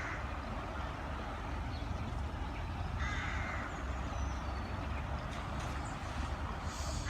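A bird calling once, a call of about half a second about three seconds in, over a steady low rumble.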